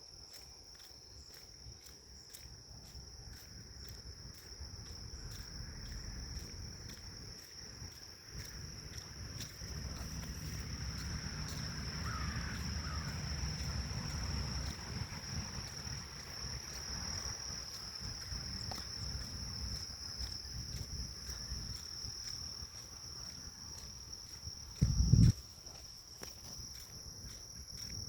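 Grass insects trilling in one unbroken high-pitched tone, over a low rumble of wind that builds through the middle. A short, loud low thump comes near the end.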